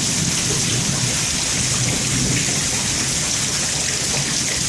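Heavy rain pouring down in a thunderstorm, a steady even hiss of rain hitting the ground and pooling water.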